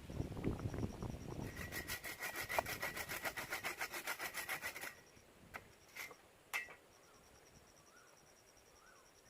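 Hand sawing through wood in quick, evenly spaced strokes for a few seconds, then three sharp knocks.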